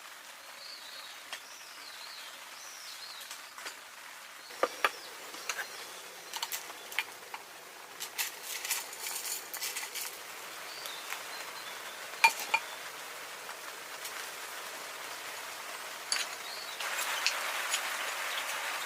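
Outdoor cooking sounds: scattered metal clinks and small crackles over a steady hiss, with birds chirping in the first few seconds. About seventeen seconds in the hiss gets louder and stays up.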